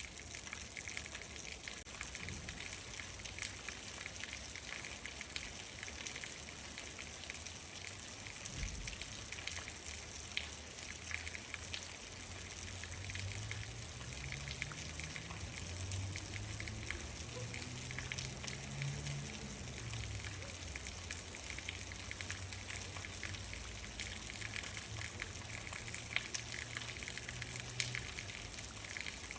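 Steady rain, with many small drops ticking on a surface. Through the middle a low hum swells and then fades away.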